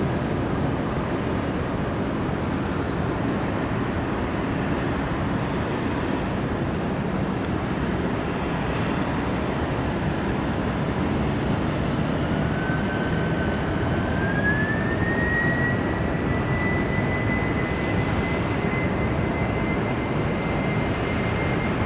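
Jet airliner's engines running with a steady roar; about twelve seconds in, a whine rises over a few seconds and then holds steady as the engines spool up.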